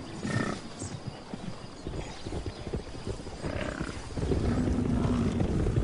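Bison herd on the move: hooves clopping over the ground, with a few short animal grunts and a low rumble that grows a little louder about four seconds in.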